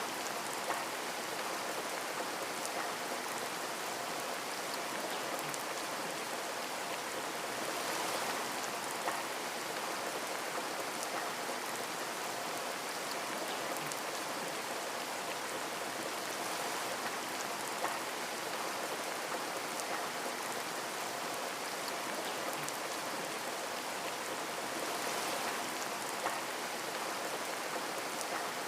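Steady rain falling on a window, with a few sharp single-drop taps and two brief swells of heavier rain, about a third of the way in and near the end.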